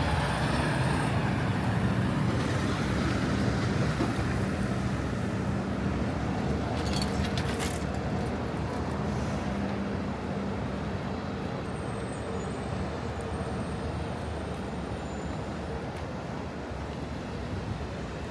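City street traffic: steady roadway noise with a large vehicle's engine running, its low hum strongest in the first half and easing off after about ten seconds. A couple of brief clicks about seven seconds in.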